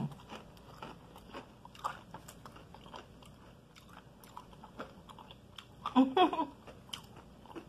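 Close-up chewing of a mouthful of sauce-covered fried chicken: scattered wet mouth clicks and crunches of the breading. A brief vocal sound comes about six seconds in.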